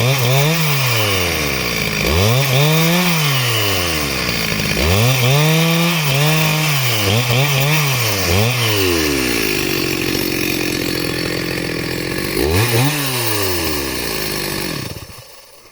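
Two-stroke chainsaw revving again and again, its pitch rising and falling with each squeeze of the throttle. It settles to a steady idle for a few seconds, revs once more, then shuts off near the end.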